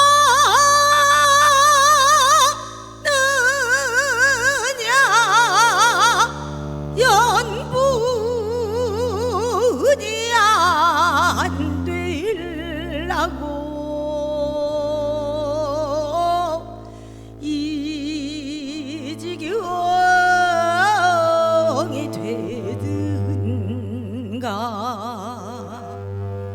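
Korean traditional music: a melody in phrases with wide, wavering vibrato over sustained low bass notes that change every few seconds.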